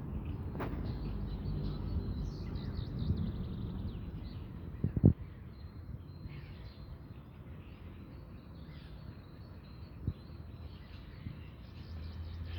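Birds calling faintly over a low outdoor rumble that eases after the first four seconds. A sharp thump comes about five seconds in, and a smaller one near ten seconds.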